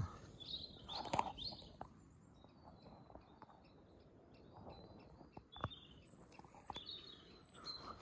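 Small forest birds chirping and twittering, short high calls scattered throughout over a faint background hiss. A brief rustle with a sharp click about a second in, and another sharp click a little past the middle.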